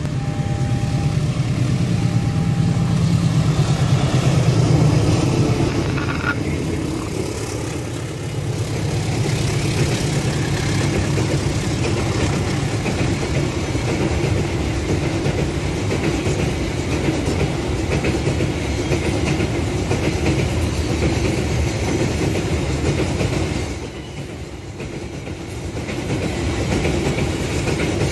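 A diesel locomotive hauling a container freight train passes close by. Its engine drone is strongest for the first five or six seconds, then gives way to the steady rumble and clatter of loaded container flat wagons rolling over the rails, which dips briefly near the end.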